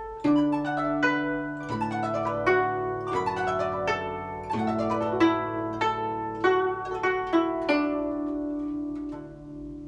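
Guzheng played solo: a steady stream of plucked notes and quick runs in the right hand over ringing low bass octave notes from the left hand, dying away near the end.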